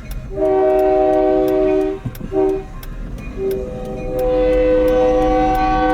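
Locomotive air horn sounding a chord in separate blasts: a long blast, two short ones, then a long held blast.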